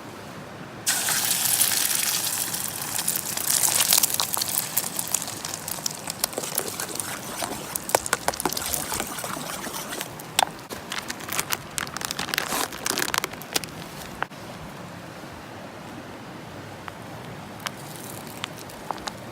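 Food sizzling in a hot skillet over a campfire. The sizzle starts suddenly about a second in and dies down gradually, with scattered clicks and crackles as it is stirred.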